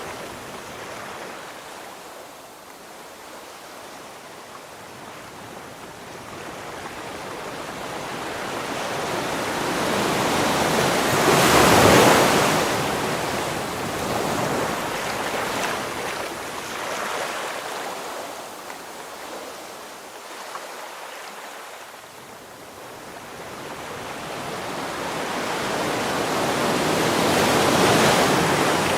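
Ocean waves breaking on a shore, the surf swelling slowly to a loud crash about twelve seconds in, falling away, and building again to a second crash near the end.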